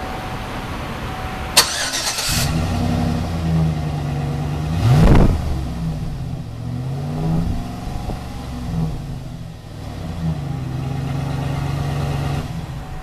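2009 Chevrolet Silverado 1500's engine being revved from idle. A sharp click and a short rush come about a second and a half in. The engine note then climbs and falls quickly about five seconds in, shifts through several more blips, holds at higher revs, and drops back near the end.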